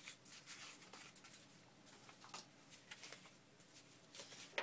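Faint, intermittent rustling and sliding of paper sheets as they are handled and laid together into a stack.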